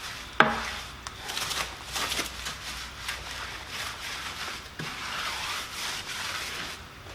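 Stiff-bristled green brush scrubbing the wet inside of a car wheel, in uneven back-and-forth swells of bristle scratching. One sharp knock comes about half a second in.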